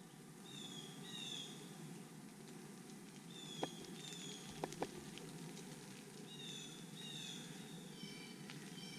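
A songbird singing short phrases of high, down-slurred whistled notes, repeated four times a couple of seconds apart. Three sharp clicks come just past halfway.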